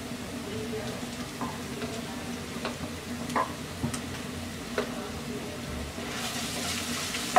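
Onions and ginger-garlic paste sizzling in hot oil in a kadai, with a spatula knocking and scraping against the pan a few times. The sizzling grows louder near the end as the paste is stirred into the oil.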